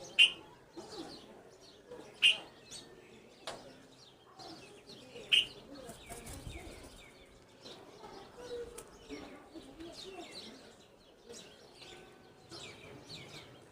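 Red-vented bulbuls calling: three loud, short, sharp calls, one right at the start, one about two seconds later and one about five seconds in, over a steady scatter of fainter chirps.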